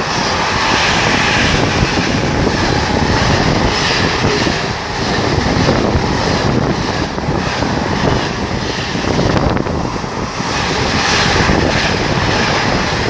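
Class 70-hauled freight train passing at speed close by: a loud, steady rush and rumble of the wagons' wheels on the rails that carries on for the whole pass.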